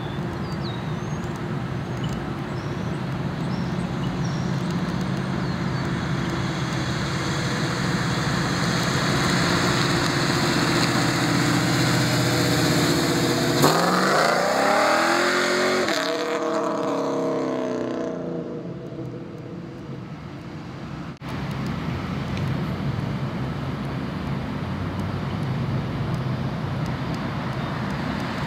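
Modified Chevrolet Camaro V8 rumbling as it approaches and grows louder, then revving up in pitch as it accelerates past about halfway through and fading away. After a sudden cut, a steady V8 rumble returns as the car comes back.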